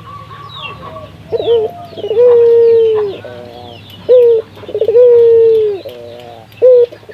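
A burung puter (Barbary dove) cooing in full song. It gives two whole phrases and starts a third: short clipped notes, a long drawn-out coo of about a second, then a quick stuttering run of notes. Faint high chirps of small birds sound behind it.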